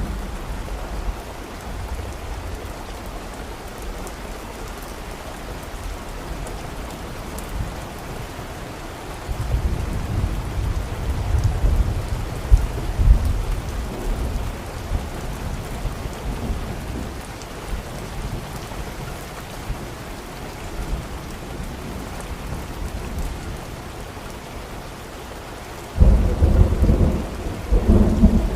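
Steady rain falling, with a low roll of thunder that builds about nine seconds in and lasts several seconds, and another louder rumble near the end.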